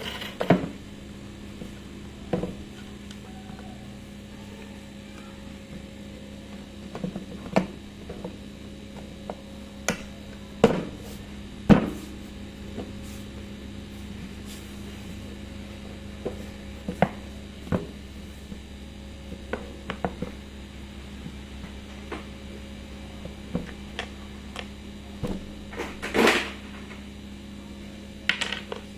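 Scattered sharp clicks and knocks of tools and plastic or metal parts being handled during a repair on a workbench, over a steady low hum. A longer scraping rattle comes near the end.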